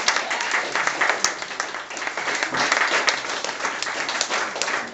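A roomful of people applauding: many hands clapping at once in a dense, steady patter.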